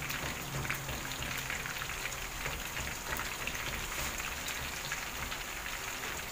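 A breaded fish fillet frying in hot oil in a frying pan: a steady sizzle with many small crackles.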